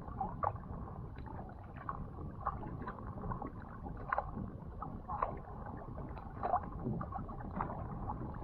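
Water sounds from a sea kayak on the move: small irregular splashes and drips from the paddle and hull, over a low steady rumble.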